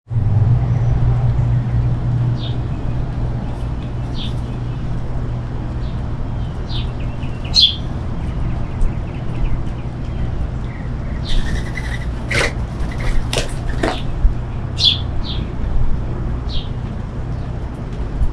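Small birds, finches, give short high chirps every second or two over the steady noise of a rainstorm and a low rumble. About two-thirds of the way through comes a quick flurry of sharp flutters, like wings flapping at the feeder.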